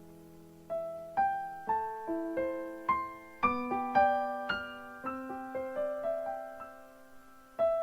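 Soft, slow solo piano music: a held chord dies away, then single notes are struck one by one about a second in, building a gentle melody, each note ringing and fading.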